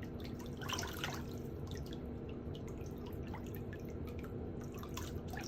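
Irregular water drips, short plinks at varying pitch, over a steady low hum.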